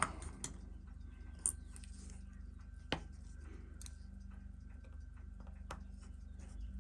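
A few faint, sharp metallic clicks of a screwdriver working a very tight screw loose on a Seiko 6105 watch movement, over a steady low hum.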